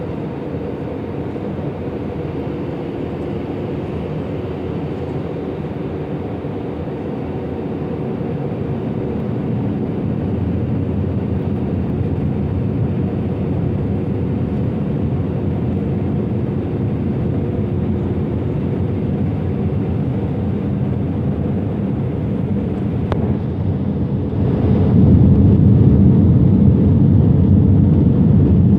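Passenger aircraft cabin noise from the engines and the rush of air past the fuselage during the approach to landing, heard from inside the cabin. The noise grows a little louder about ten seconds in, then steps up to a heavier low rumble near the end.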